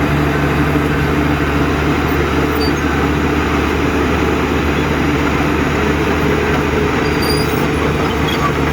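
Heavy diesel engine of earthmoving machinery running steadily at a constant pitch, with a rumbling mechanical noise over it.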